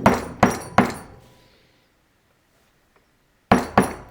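Sharp metallic clinks and knocks of chainsaw engine parts being handled: three in quick succession at the start, then two more about three and a half seconds in, each with a faint ringing.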